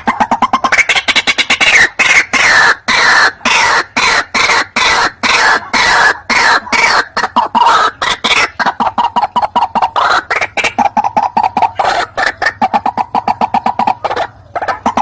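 White-breasted waterhen calling: a loud, rapid run of harsh repeated croaking notes, sliding downward in pitch through the first half, then turning into a steadier, lower-pitched fast chatter about halfway through.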